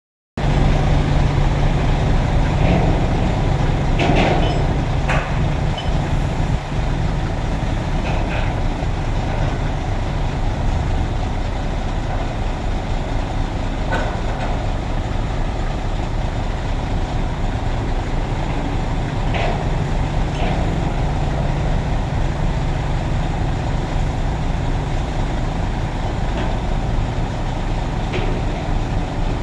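Truck engine running steadily with a low drone, with a few short clicks and rattles over it.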